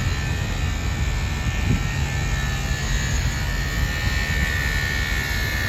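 Electric polishing machine buffing truck chrome, its motor whining steadily and dipping slightly in pitch partway through, over a steady low rumble.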